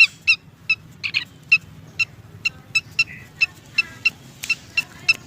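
Pelanduk semak babbler calling: a steady run of short, sharp high chip notes, about two or three a second.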